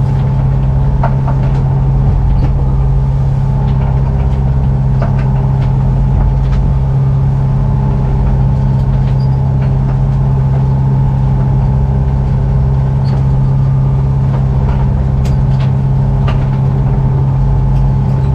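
Yacht's inboard engine running steadily under way, a constant hum, with scattered light knocks and clicks over it.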